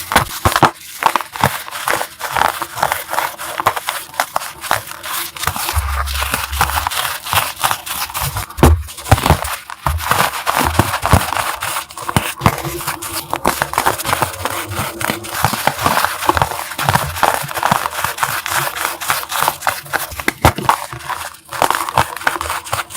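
Dense, continuous crunching and crackling of a dry, crisp material being crushed, with brief pauses about a third of the way in and near the end.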